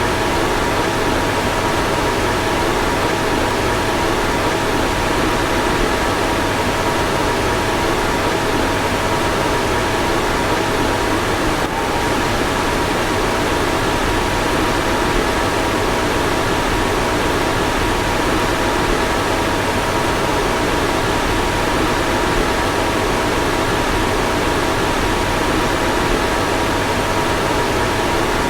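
Car fan running steadily: an even rush of air with a few faint, steady whining tones riding above it.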